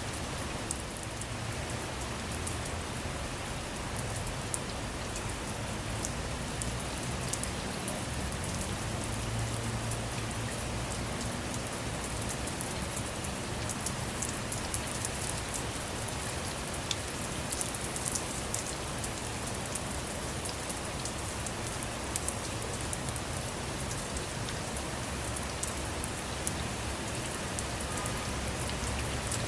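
Steady rain falling on a car, heard from inside, with many single drops ticking over a low rumble.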